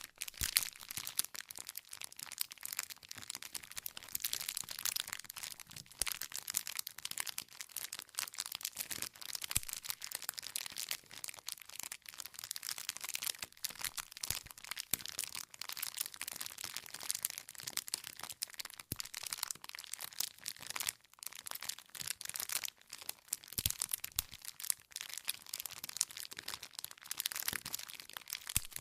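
Wood fire crackling continuously: dense small snaps and pops with a few sharper cracks as the logs burn.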